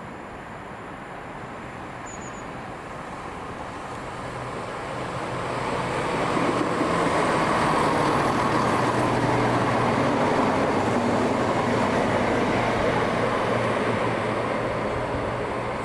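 A diesel train running through the station. It grows louder over the first six seconds or so, then stays loud with a steady low engine note under the rumble, easing slightly near the end.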